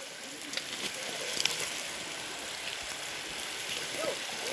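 Crabs frying in masala gravy in a pot over a fire: a steady sizzling hiss with a few light pops in the first second or two.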